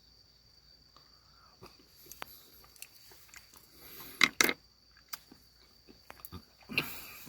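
A person chewing raw squid: soft wet mouth clicks, with a couple of louder chewing smacks about four seconds in and again near the end.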